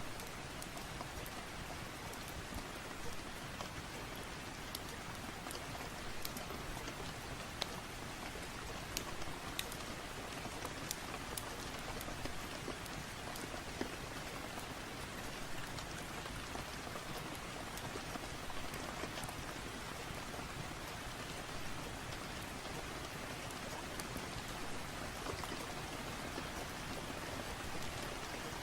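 Steady rain falling, an even hiss with scattered sharp clicks.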